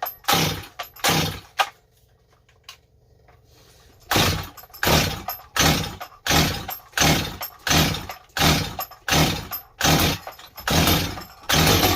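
Stihl 025 two-stroke chainsaw being pull-started: a quick series of recoil starter cord pulls, about two a second, the engine turning over without catching, a pause of about two seconds, then another long run of pulls. The saw is flooded.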